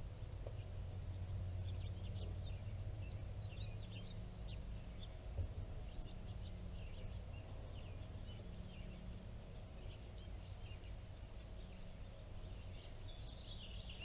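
Small birds chirping and twittering in short high notes, scattered and growing busier near the end, over a steady low outdoor rumble.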